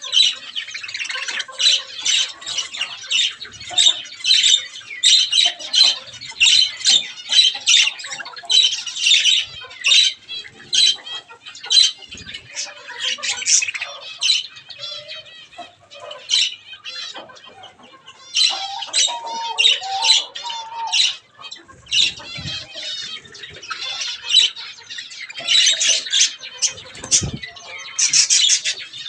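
An aviary flock of budgerigars chattering and squawking in a dense, continuous stream of rapid high chirps. A lower wavering call comes in about two-thirds of the way through, and there are a couple of low thumps near the end.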